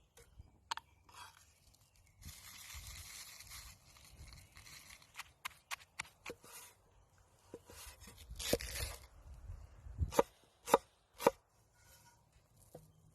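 Knife chopping food on a cutting board during camp cooking: irregular sharp chops, with three loud strokes in a row near the end, and a stretch of scraping noise a couple of seconds in.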